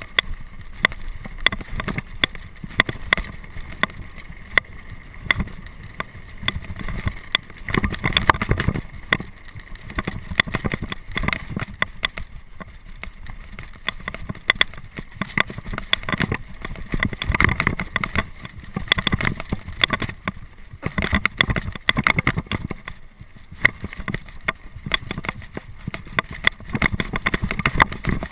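A mountain bike clattering and rattling as it rides fast over rough, rocky ground, with continual knocks from the frame and chain and wind buffeting the microphone.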